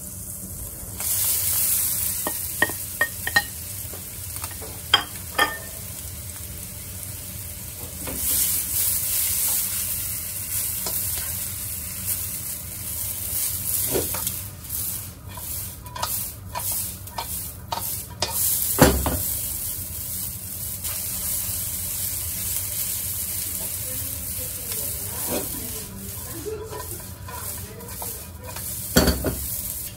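Egg noodles sizzling in hot oil in a nonstick wok, the sizzle jumping up about a second in as they hit the oil. A plastic spatula stirs and tosses them, scraping and knocking against the pan several times.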